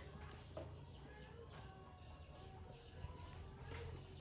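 Steady high-pitched chorus of insects, crickets or cicadas, with four short chirps about three seconds in.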